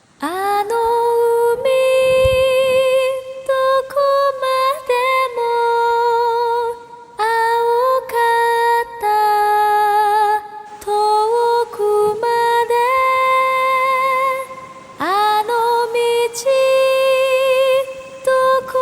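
Background music: a woman singing a slow melody of long held notes with vibrato, each phrase opening with an upward scoop into the note, with short breaks between phrases.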